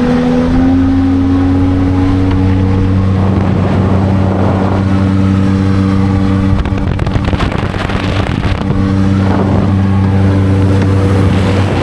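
Motorboat engine running steadily at a constant pitch, with a slight step up in pitch about half a second in.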